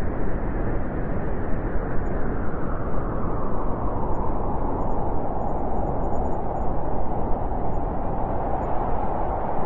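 Thunderstorm sound effect: a steady, deep rumble with no distinct strikes.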